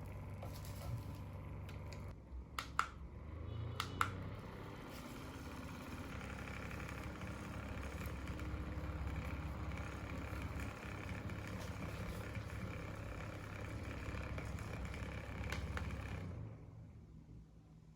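Small battery-powered USB fan running with a steady whir and motor hum, with two sharp clicks about three and four seconds in. Near the end the sound winds down to quiet.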